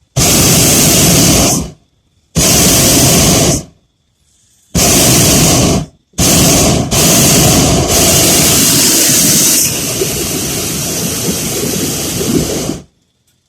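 Hot-air balloon's propane burner firing in loud blasts: three short blasts of about a second and a half each, then one long burn of about six seconds that drops a little in level partway through.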